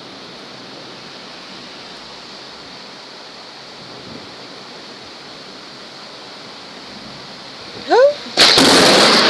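Steady heavy rain, then near the end a sudden, very loud crack of close thunder from a lightning strike nearby. The crash carries on without a break, and a short rising sound comes just before it.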